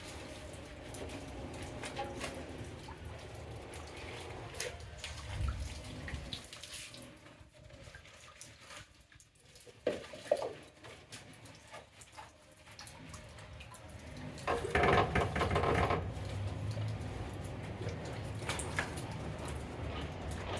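Water splashing and dripping on a motorcycle being washed by hand, with scattered small clicks and knocks and a louder burst of water about three-quarters of the way through.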